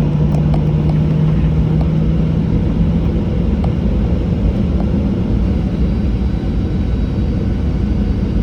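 Cabin noise of a Boeing 737-800 rolling on the ground after landing: a loud, steady low rumble of engines and wheels, with a steady hum that fades about three seconds in and a few light rattles and clicks from the cabin.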